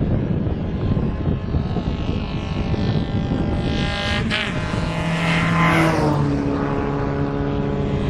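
A car engine running and revving: its pitch climbs to about four seconds in, drops back, and then holds steady.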